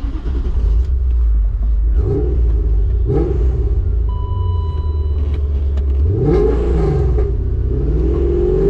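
Supercharged BMW S62 4.9-litre V8 running through a straight-piped exhaust as the car is driven off, its note shifting as it pulls and the revs climbing about six seconds in. A short electronic beep sounds briefly near the middle.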